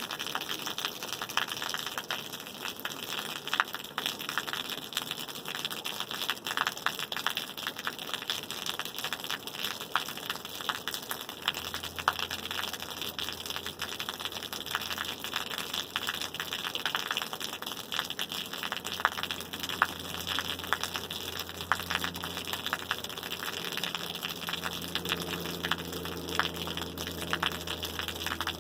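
Rain falling steadily, a dense hiss of many small drops. A low steady hum comes in about twelve seconds in, and a few higher steady tones join it near the end.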